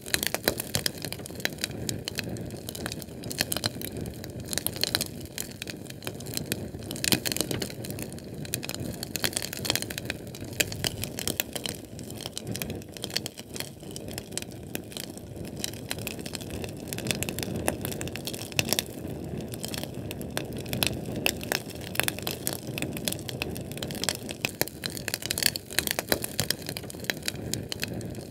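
Fire burning steadily, with dense, irregular crackles and pops over a low rumbling hiss.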